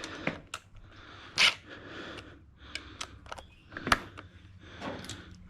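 Irregular metallic clicks and knocks of a hand wrench working the turbo's 13 mm V-band clamp, with a short rushing burst about a second and a half in.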